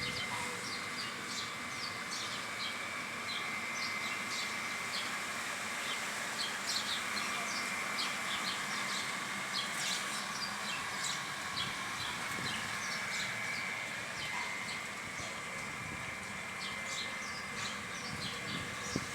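Many small birds chirping in quick short calls over a steady insect drone.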